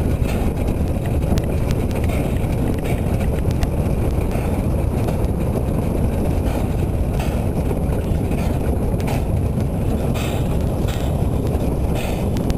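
Narrow-gauge train rolling along the track, heard from its rear wagons: a steady low rumble of wheels on rails with irregular clacks and knocks.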